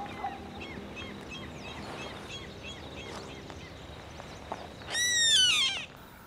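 A bird gives one loud, drawn-out call that rises and then falls, about five seconds in, over faint short chirps of other birds.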